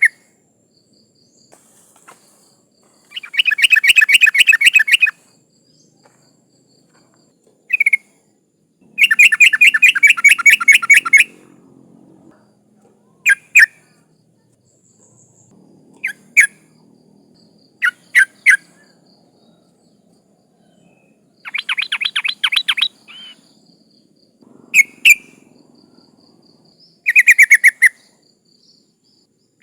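Yellow-vented bulbul (trucukan) calling: four loud runs of fast, bubbling chatter, each about two seconds long, with short single and double call notes between them. It is offered as a female's call to draw males.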